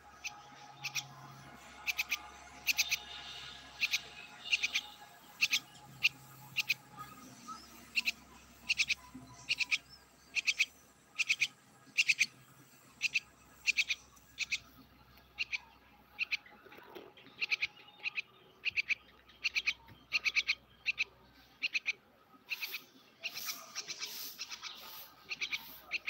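Fledgling songbird calling over and over with short, sharp, high chirps, about one or two a second, coming a little faster in the second half.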